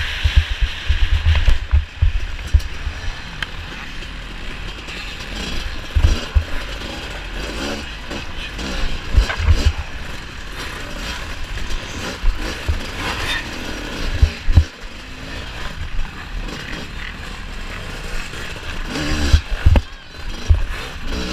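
Off-road motorcycle engine revving up and down as the bike is ridden over rough trail, with frequent heavy low thuds on the microphone.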